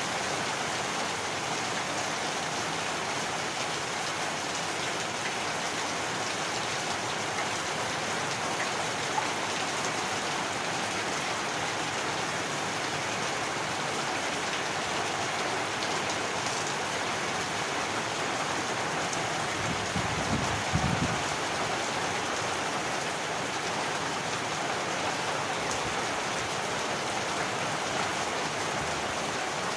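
Heavy rain falling steadily on surfaces, a dense, even hiss of drops. About two-thirds of the way in there is one brief low thump.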